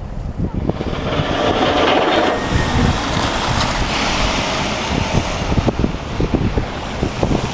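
Blizzard wind buffeting the microphone in rough low gusts, with a broader rushing swell of noise from about a second in that eases off after about five seconds.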